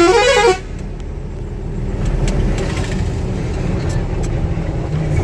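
Truck's musical horn playing a warbling tune that rises and falls in pitch, cutting off about half a second in. Then a truck engine idling with a low, steady rumble.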